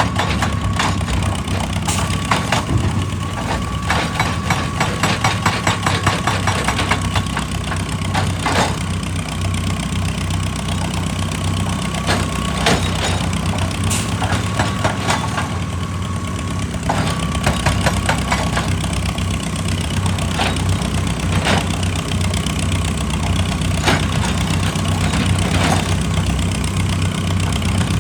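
Heavy diesel earthmoving machinery running steadily at rock work, with many sharp knocks and clacks of rock or steel, thickest in the first several seconds. A thin, high steady whine comes and goes.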